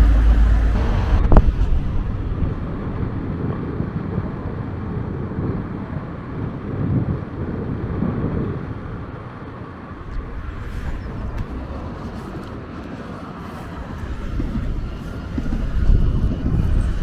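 Tram running, a low rumble that swells and fades, with a single sharp click about a second in.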